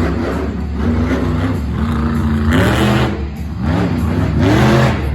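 Monster truck engine revving hard, its pitch rising and falling over and over as the throttle is blipped, with the rises coming closer together in the second half.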